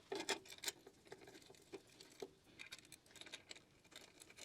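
Faint scattered clicks and ticks of a hand wrench and metal parts while a bicycle kickstand's two mounting screws are tightened, with a few sharper clicks in the first second.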